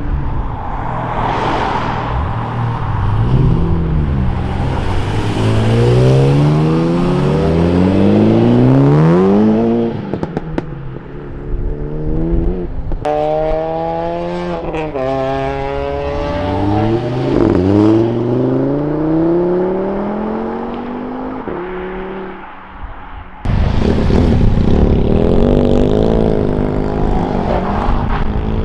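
Modified car engines accelerating away, their pitch climbing again and again as the cars rev up and change gear. About 23 seconds in, the sound jumps suddenly to another loud engine running.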